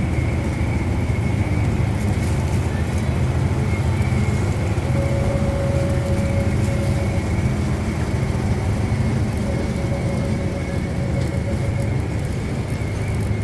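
Steady low rumble of a car driving, heard from inside the cabin. A faint steady high whine runs throughout, and a faint hum comes in twice, about five and nine seconds in.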